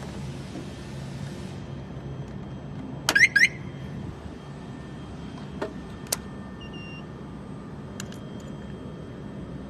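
Three quick rising electronic chirps about three seconds in, then a few sharp clicks and two short faint beeps, over a steady low hum.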